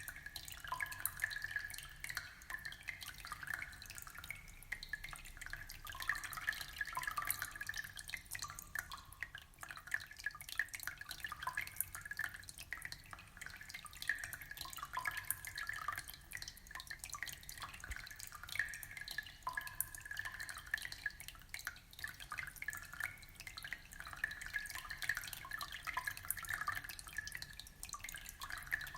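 Aquarium water trickling and dripping steadily, a dense run of small plops and splashes.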